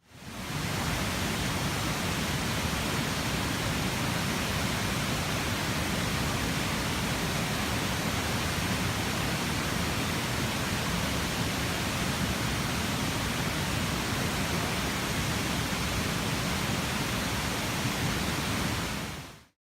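Waterfall rushing close by, a steady, unbroken roar of falling water that fades in at the start and out at the end.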